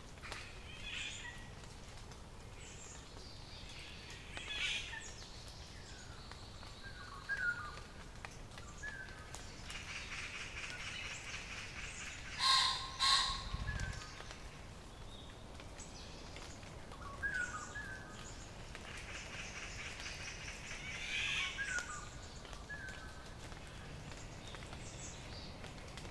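Several wild birds calling, with short chirps and calls scattered throughout and two louder calls close together about halfway through.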